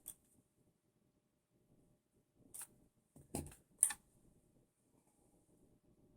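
Mostly quiet, with three short light clicks between about two and a half and four seconds in: small hand tools or parts being handled while checking a screw on an RC buggy.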